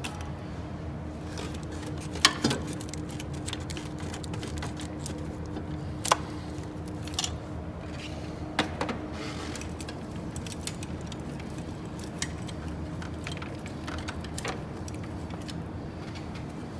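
Metal tools clinking and tapping against engine parts during engine disassembly: a few sharp separate clinks, the loudest about two seconds in, over a steady low hum.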